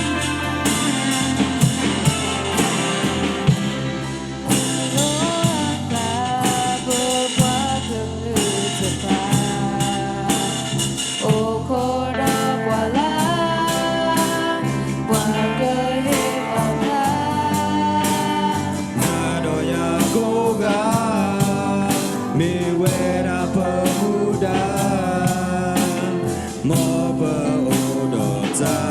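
A song: a voice singing a wavering melody over a band with guitar, bass and a steady drum beat.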